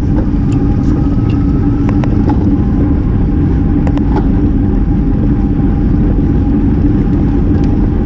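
Wind rushing over a bicycle-mounted action camera's microphone while riding, with a steady low hum under it and the rider's laboured, asthmatic breathing on a steep climb.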